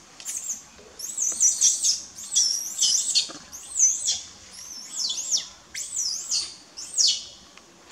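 A bird singing: short, very high notes that rise and fall, given in quick runs of two to four with brief pauses between runs.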